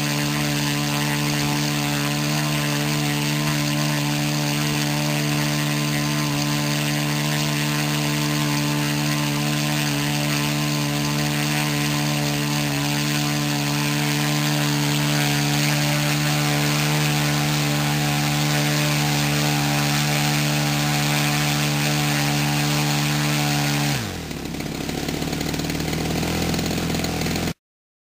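Small internal-combustion engine running at a steady speed under servo-driven throttle control. About 24 s in its speed drops quickly and it settles at a lower speed, until the sound cuts off near the end.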